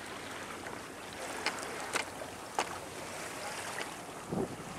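Wind and water noise aboard a small sailboat under way, with a few sharp clicks in the middle and a dull knock near the end.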